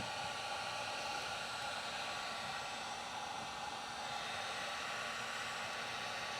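Heat gun blowing steadily, a continuous even rush of air with a faint motor hum, used to warm plastic hot tub plumbing.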